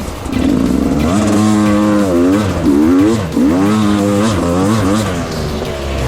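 Beta 300 RR two-stroke dirt bike engine revving up and down repeatedly as the throttle is worked, its pitch climbing and dropping several times, then settling near the end.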